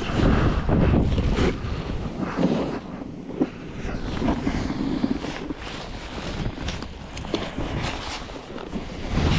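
Heavy wind buffeting the microphone, a gusting rumble that rises and falls with many short rough bursts.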